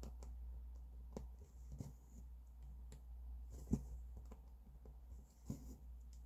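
Hand cross-stitching: the needle pops through taut stitching fabric in soft taps every second or two, some followed by a brief hiss as the thread is drawn through, over a low steady hum.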